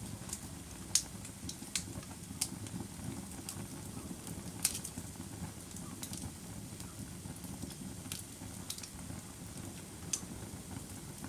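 Wood fire crackling: a steady low rumble of flames with irregular sharp pops and snaps, about one a second.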